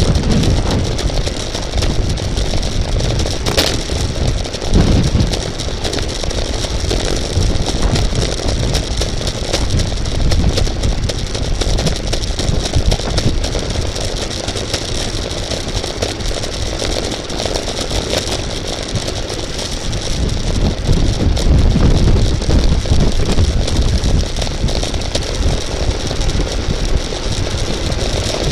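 Steady wind rush buffeting the microphone of a camera riding along in a bicycle race, with a heavy low rumble of wind and road noise.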